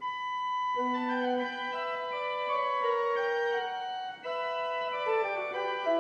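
Pipe organ playing: a single high note held at first, then fuller chords with a moving line of notes above, with a brief break about four seconds in.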